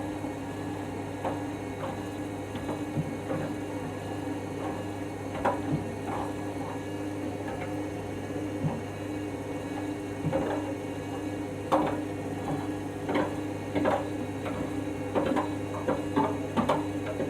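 Candy washing machine's drum motor running with a steady hum during the main wash, while a ball tumbling in the drum clatters in irregular knocks that come more often in the second half.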